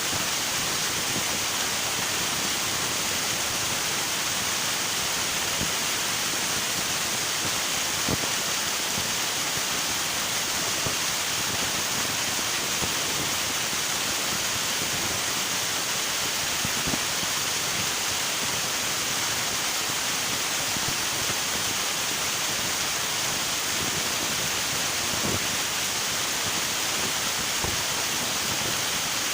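River water rushing steadily, an even hiss with a few faint splashes scattered through.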